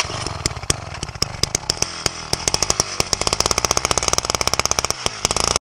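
Power ice auger running as it drills through the ice, a steady motor noise with many sharp cracks that come quicker toward the end. It starts abruptly and cuts off suddenly near the end.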